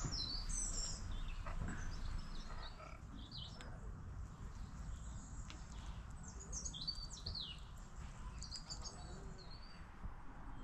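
Small birds chirping and calling outdoors: short high chirps scattered through, over a steady low background rumble.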